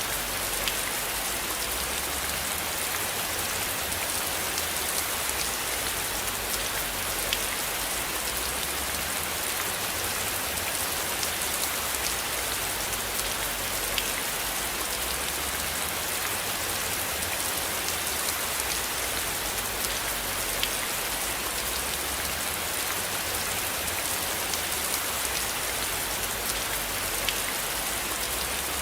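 Steady rain falling on a surface: an even hiss with a few scattered sharp drop ticks and a low rumble underneath.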